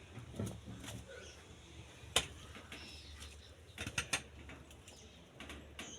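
Scattered knocks, clicks and scrapes of manual cowshed-cleaning work, with one sharp knock about two seconds in and a quick cluster of clicks near four seconds.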